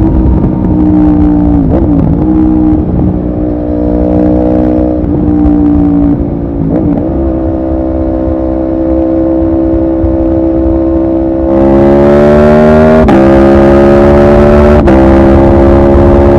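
Aprilia Tuono V4R's V4 engine heard from the riding motorcycle. It holds a steady cruise with two brief dips in engine speed, then about two-thirds of the way through the throttle opens hard: the engine gets louder and its pitch climbs, broken twice by quick interruptions.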